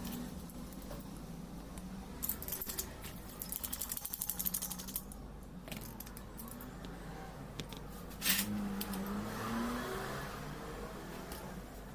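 Small metal parts and tools clinking and clicking during hand assembly of a diesel fuel injection pump, over a steady low hum. There is a run of quick clicks a few seconds in and one sharp click past the middle.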